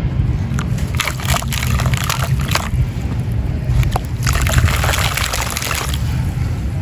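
Dry, gritty crumble material breaking apart and dissolving in water, crackling and fizzing with sloshing. The crackling comes in two main spells, with a few sharp snaps, over a steady low rumble.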